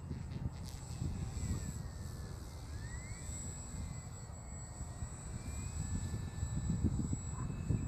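Electric motor and propeller of a radio-control RV-8 model plane whining faintly, its pitch rising and falling with the throttle, over wind buffeting the microphone.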